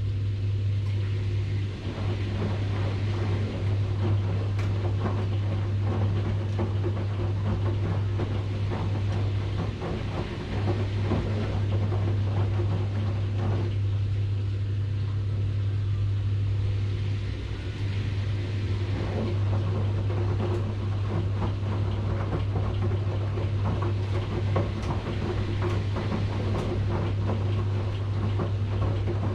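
Washing machine running: a steady low hum with a busy, irregular rattle over it that eases briefly a few times.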